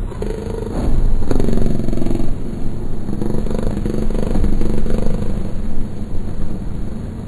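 Noise-music drone: a dense low rumble with a few steady droning tones over it, shifting abruptly about a second in.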